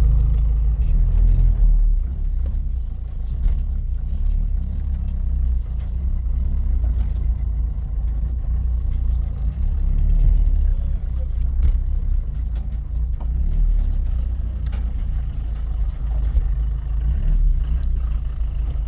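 Motor vehicle engine running steadily, a low drone with scattered light clicks and rattles over it.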